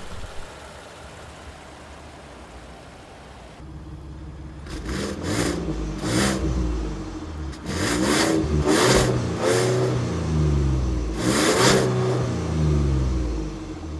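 The 2019 Ford F-150 Limited's high-output 3.5-liter twin-turbo V6 idles, then from about four seconds in it is revved again and again in a series of short blips.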